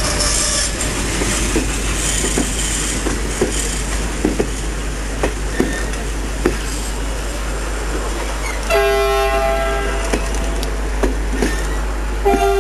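Departing train of passenger coaches hauled by an M43 diesel locomotive rolling past, wheels clicking over rail joints roughly once a second over a steady rumble. About two-thirds in, the train's horn gives a blast of just over a second, and a second blast starts near the end.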